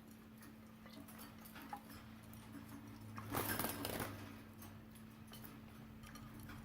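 Budgies bathing in a water bath: faint small ticks and taps, with a short burst of splashing about three and a half seconds in.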